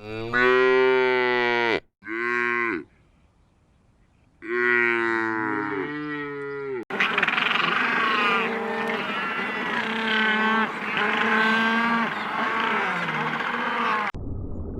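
Cattle mooing: three separate long moos, then several cows calling over one another. Near the end it cuts off suddenly.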